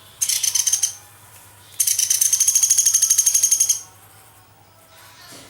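Young pelatuk beras woodpecker calling: a short, rapid, high-pitched trill, then about a second later a longer one lasting about two seconds.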